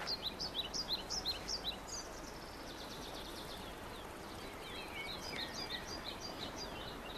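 Birds chirping over a faint outdoor background hiss: quick repeated high chirps in two runs, one in the first two seconds and another from about the middle to near the end.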